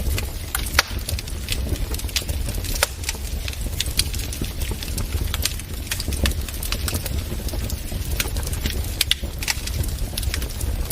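Wood fire crackling in a fireplace: irregular sharp pops and snaps, a few louder than the rest, over a steady low rumble of the burning fire.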